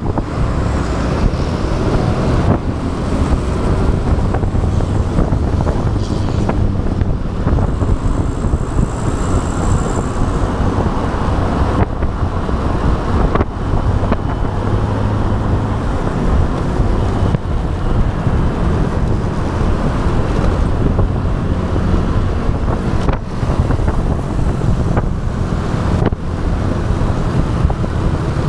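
Wind buffeting an action camera's microphone on a moving motorbike, with the motorbike's engine and road noise running steadily beneath.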